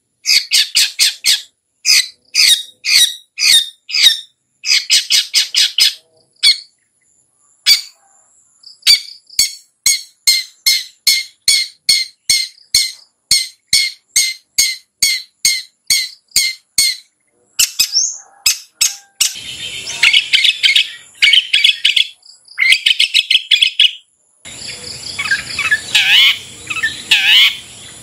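Long-tailed shrike (cendet) calling in rapid runs of short, harsh repeated notes, several a second, broken by brief pauses. About two-thirds through it changes to a denser, more varied chattering song.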